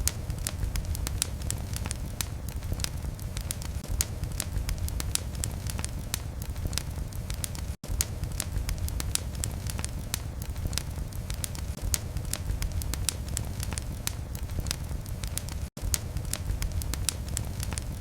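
Wood fire burning in a fireplace: a steady low rumble of flames with many sharp, irregular crackles and pops. The sound cuts out for an instant twice.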